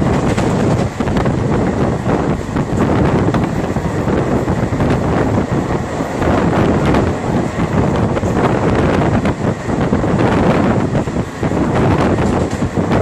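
Wind rushing over a microphone held outside a moving passenger train, over the steady rumble and clatter of the coach's wheels running on the rails.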